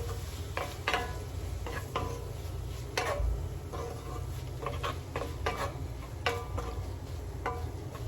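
A metal utensil stirring chicken sisig in a frying pan, clinking and scraping against the pan irregularly about twice a second, over a low steady hum.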